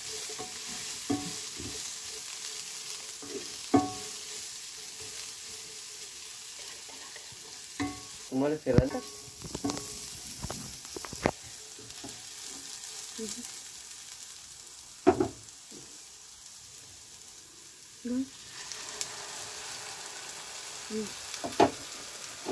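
Eggplant and onion frying in oil in a non-stick pan, sizzling steadily as they are stirred, with scattered scrapes and clinks of the spatula against the pan. The sizzle grows louder again near the end.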